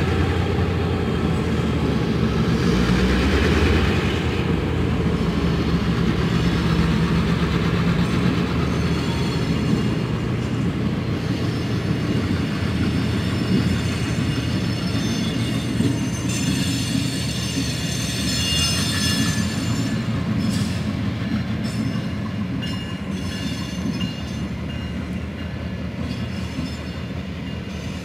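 Passenger cars of the Canadian Pacific 150 train rolling slowly past, a steady rumble of wheels on rail with some clicking over the joints. Several seconds of high-pitched wheel squeal come about two-thirds of the way through, and the rumble fades a little near the end.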